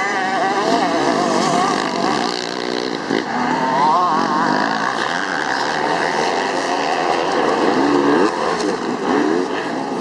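Several dirt bike engines racing, their pitch rising and falling as the riders rev and shift.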